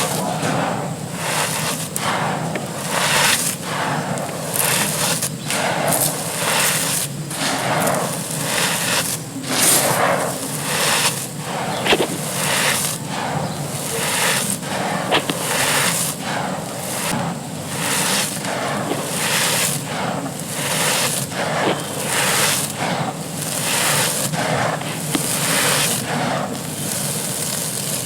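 Dry clay pot and gritty sand being crumbled and crushed by hand, a run of crunchy, gritty crumbles about once a second, over a steady low background hum.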